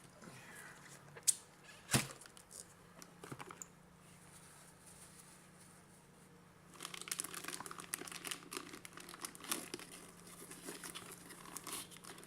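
An isopropyl alcohol wipe packet being handled and torn open: two sharp clicks about one and two seconds in, then from about seven seconds on several seconds of dense crinkling and rustling.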